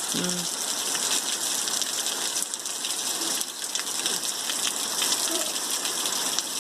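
Steady rain falling on plants and ground: an even hiss with scattered drops, and no thunder.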